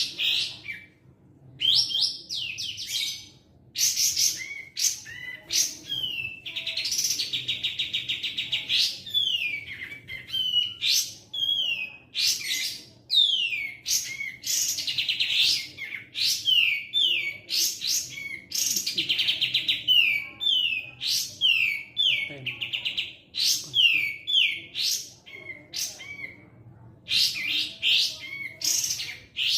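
Kapas tembak songbird singing busily and without pause, a varied song of quick falling whistled notes broken by several longer rattling trills.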